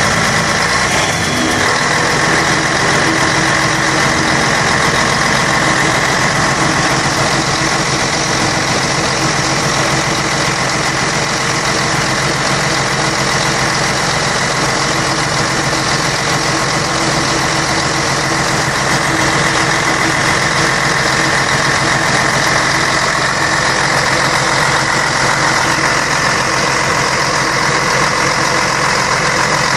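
Scania K113 bus's 11-litre straight-six diesel engine running steadily at constant revs.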